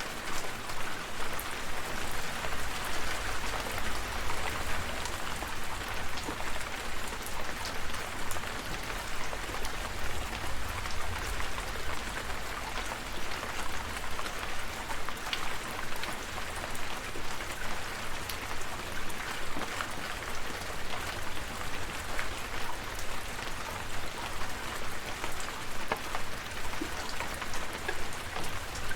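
Steady rain falling, with many separate drops ticking on a surface over a low rumble.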